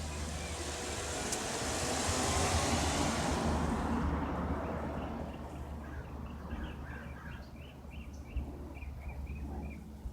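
A single-engine Cessna light aircraft droning overhead, its noise swelling to a peak a couple of seconds in and then fading as it passes. Birds chirp repeatedly in the second half.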